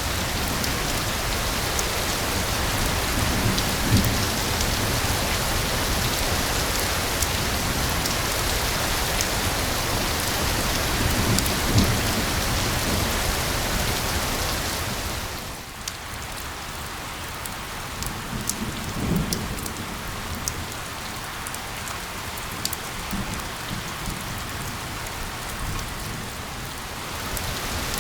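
Steady rain hiss. About halfway through it falls to a lighter patter in which single drops tick, then swells back to the full hiss near the end. A few low rumbles come several seconds apart.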